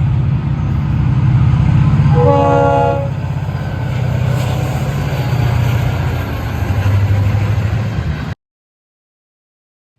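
Diesel locomotive running with a loud, steady low rumble. It sounds a short horn blast, under a second long, about two seconds in. The sound cuts off abruptly a little after eight seconds, leaving silence.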